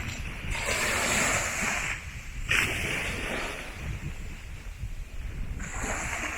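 Ocean waves breaking and washing up a sandy beach in repeated surges, with wind rumbling on the microphone.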